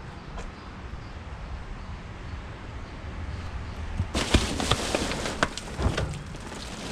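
Curbside junk being moved about: a run of rustling, clattering and knocking that starts about four seconds in, over steady outdoor background noise.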